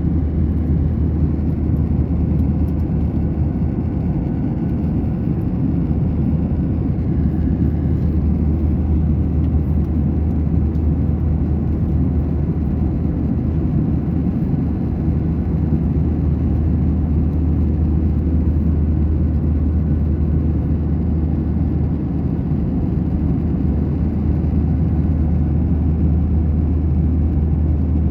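Steady low rumble and whir of a passenger jet's cabin: engine and airflow noise, unchanging throughout.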